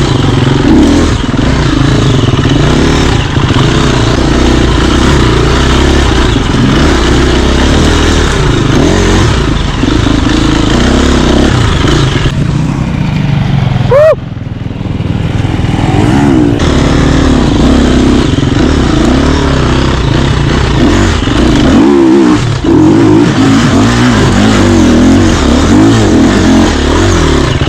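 Dirt bike engine being ridden hard, revving up and down as the throttle opens and closes. It eases off about halfway through, then picks up again.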